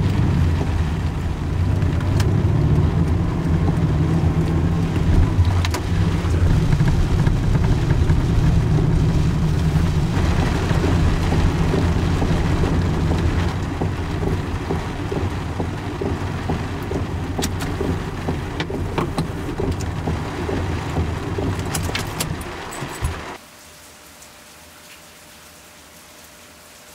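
A heavy rainstorm: rain pouring down with a deep rumble beneath it and scattered sharp drop hits. About 23 seconds in it cuts off suddenly, leaving only a faint hiss.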